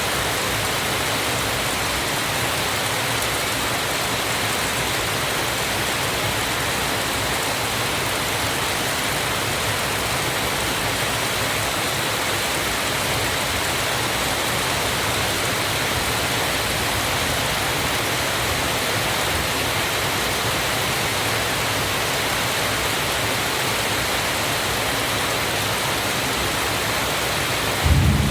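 Waterfall's steady rushing water, an even hiss that does not change. Right at the end a low rumble starts.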